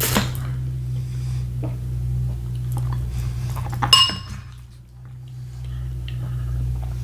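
A spoon tapping and scraping in a dish, with one sharp ringing clink against the dish about four seconds in.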